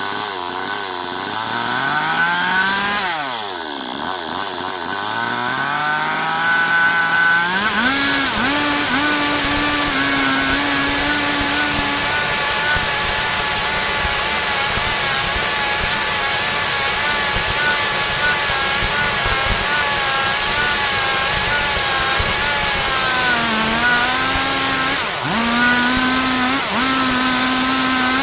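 Stihl MS 382 two-stroke chainsaw revving up unevenly over the first several seconds, then held at full throttle from about eight seconds in while cutting through wood. Its pitch sags briefly under load near the end.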